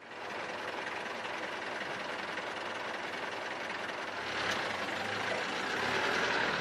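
Car engine running and the car pulling away, with a low engine rumble building about four seconds in.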